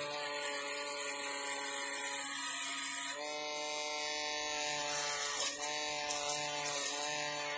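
Small electric power tool whining steadily. A hiss of the tool working against the part stops about three seconds in, and the whine dips briefly a couple of times near the middle.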